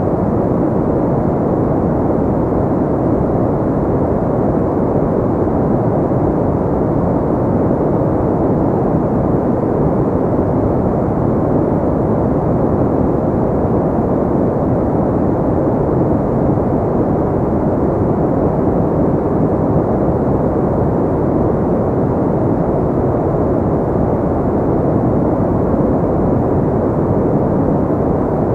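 Continuous white-noise track, filtered so that it sounds as a deep, muffled rushing hiss with little treble, steady and unchanging throughout.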